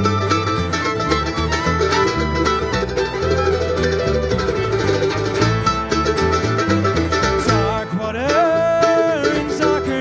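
Bluegrass string band playing an instrumental break: fast picked banjo and other plucked strings over a moving bass line, with a note that slides up and holds about eight seconds in.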